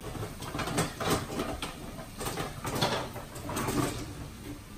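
Irregular clinks and knocks of dishes and kitchenware being handled and put away, with cupboard or drawer sounds mixed in.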